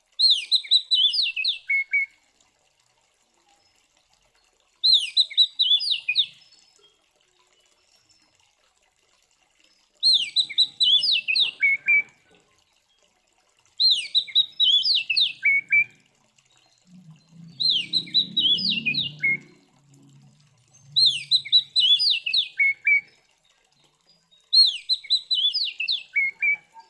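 Oriental magpie-robin (kacer) singing a short, fast phrase of sliding whistled notes, repeated seven times at intervals of about four seconds. This is the agitated, fighting-style song used to goad other male magpie-robins into singing.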